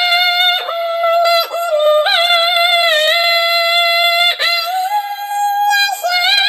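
Synthetic, pitch-corrected singing voice holding long notes of a chant-like melody, gliding and dipping in pitch between about half a dozen sustained notes.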